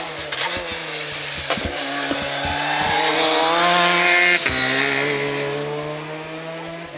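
Hillclimb race car engine accelerating hard past, climbing in pitch for about four seconds. It shifts up with a sudden drop in revs about four and a half seconds in, then pulls away and fades, with sharp exhaust crackles along the way.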